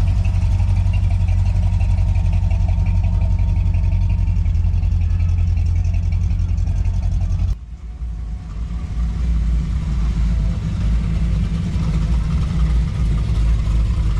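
Car engines running at low speed as cars roll slowly past, with a deep, steady low note. About halfway through it breaks off sharply, then another engine comes up, its pitch and level varying.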